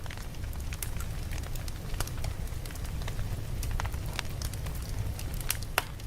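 Campfire burning, with irregular sharp crackles and pops from the wood over a steady low rumble; one pop near the end stands out as the loudest.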